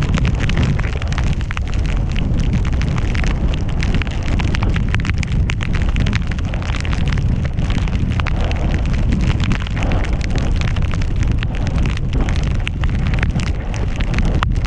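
Wind buffeting the action camera's microphones with snow rushing and crackling under the rider during a fast descent through powder in a blizzard: a steady low rumble with dense crackling on top.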